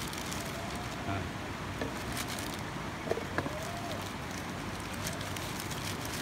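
A few light clicks as lumps of calcium carbide are loaded into a carbide lamp's chamber, over a steady outdoor rushing background.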